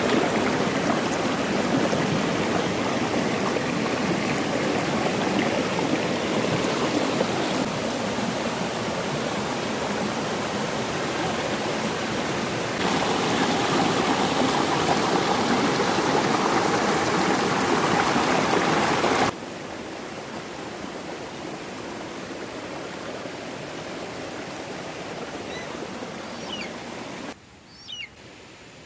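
Stream water running steadily, a full, even rush that jumps in level twice as the takes change and drops quieter about two-thirds of the way through. A rooster starts crowing near the end.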